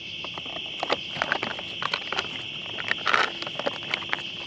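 A steady high trill of night insects, with irregular sharp clicks and crackles over it and a short rustling burst about three seconds in.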